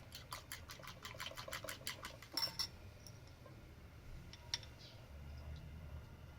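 Quick run of light clicks and clinks of a kitchen utensil against a dish, about eight a second for two and a half seconds, ending in two louder clinks, then one more click a couple of seconds later.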